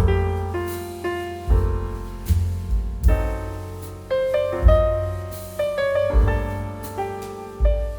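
Background music: solo piano playing a slow melody over low bass notes, a new note or chord struck about every second and left to ring.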